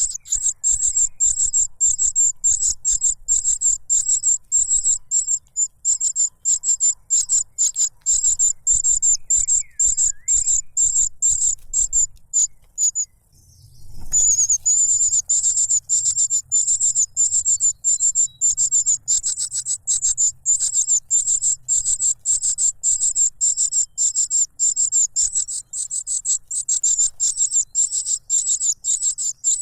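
Cuckoo chick's begging calls: a rapid, unbroken run of high-pitched chirps that breaks off for about a second near the middle, then resumes.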